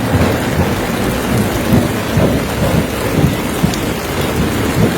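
Heavy rain falling steadily, with an uneven low rumble underneath.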